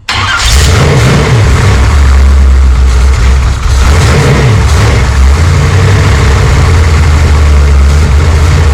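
Small-block Chevy 406 V8 running at a loud, steady idle, its pitch rising and falling slightly a few times in the first half.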